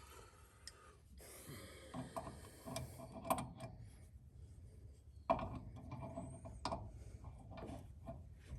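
Wrenches clicking and scraping faintly on a fuel-line fitting as it is tightened, with a louder clunk a little over five seconds in.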